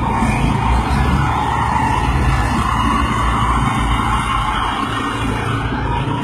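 Steady road vehicle noise: a low engine and road rumble, with no distinct impact.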